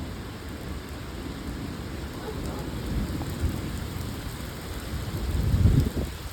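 Heavy rain pouring steadily, with a low rumble of thunder that builds and is loudest near the end.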